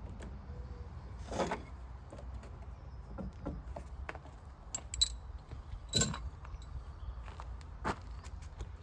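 Scattered knocks and clicks of hard objects being handled, with two sharp metallic clinks about five and six seconds in, over a low steady rumble.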